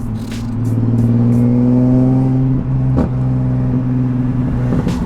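Single-turbo Nissan 370Z's V6 engine running under light load, its pitch rising slowly for about two seconds and then holding steady, with a brief click about three seconds in.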